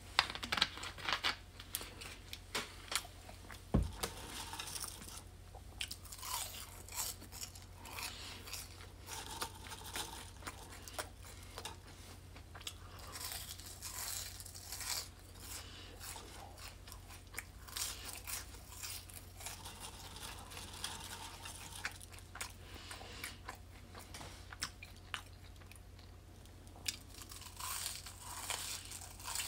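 A person chewing french fries close to the microphone, with irregular crunching throughout. One thump about four seconds in.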